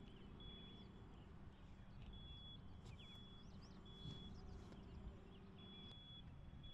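Faint bird calls: short whistled notes held at one high pitch, repeated about every second, with quick chirps between them, over a faint steady low hum.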